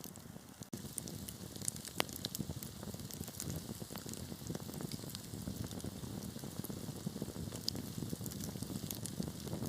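Wood fire crackling in a fireplace: a low steady rumble of burning with frequent sharp pops and snaps scattered through it, the loudest pop about two seconds in.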